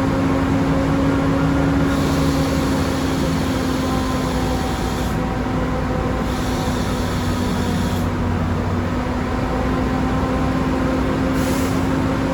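Volvo B10M bus's straight-six diesel engine running steadily with a droning tone that slowly eases lower in pitch. A higher hiss comes in and drops out a few times.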